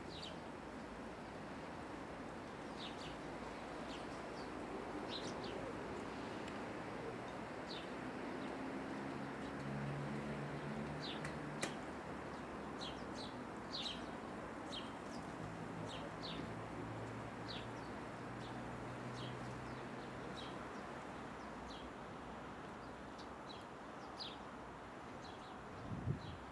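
Small birds chirping in short, high calls scattered throughout, over steady outdoor background noise. A low steady hum comes up in the middle for several seconds, and there is a low bump near the end.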